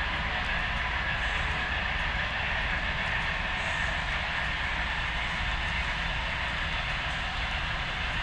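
HO scale model train running on the layout: a steady hum and rumble of motor and wheels on the rails, with faint light ticks.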